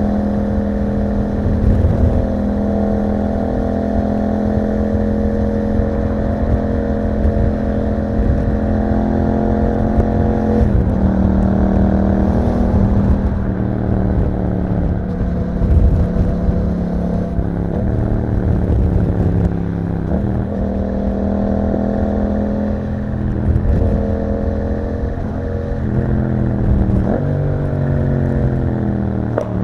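Yamaha MT-07's parallel-twin engine through an Akrapovic exhaust while riding. It holds steady revs for about ten seconds, then the pitch rises and falls several times with gear changes and throttle, and it falls away near the end as the bike slows.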